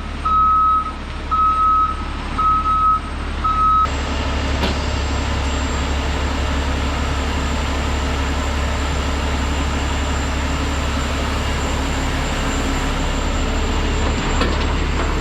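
Heavy machine backing up: its reversing alarm beeps about once a second over the engine, then the beeping stops abruptly about four seconds in and a steady engine runs on alone.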